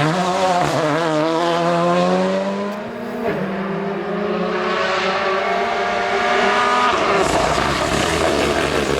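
Rally car engine accelerating hard, its pitch rising, with a quick upshift about three seconds in and a second long pull in the next gear; about seven seconds in the engine note breaks off as the driver lifts off for a corner.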